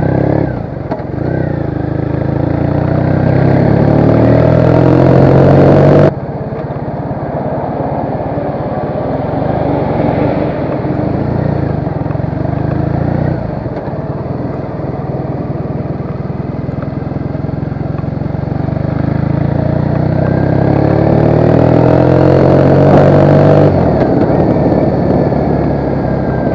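Triumph Bonneville's parallel-twin engine on the move. The note rises as the bike accelerates, then drops suddenly about six seconds in as the throttle is closed. It runs lower for a while, climbs again and drops off sharply near the end.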